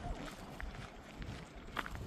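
Footsteps walking over the ground, with wind rumbling on the microphone and one sharper click near the end.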